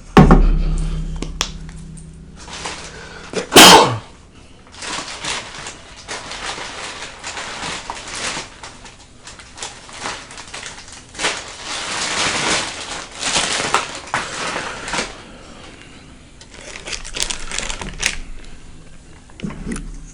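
Close-miked chewing and wet mouth sounds of someone eating a burrito, in irregular bursts. There is a loud knock at the very start and a short, sharp loud sound about three and a half seconds in.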